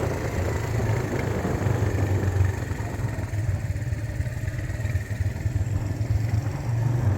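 Motor vehicle engine running under way: a steady low rumble with road noise.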